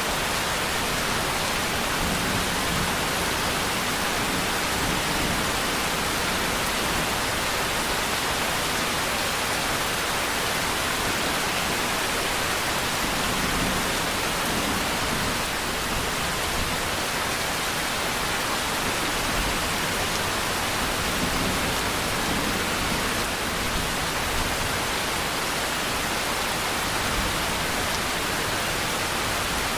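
Rain falling steadily, an even, unbroken hiss with no let-up or change in strength.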